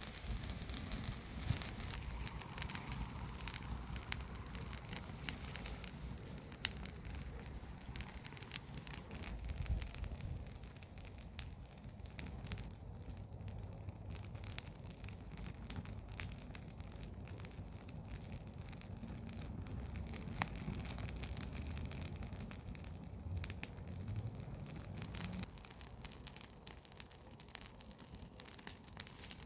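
Open fire of burning garden waste crackling, with many irregular small pops and snaps over a steady low rumble.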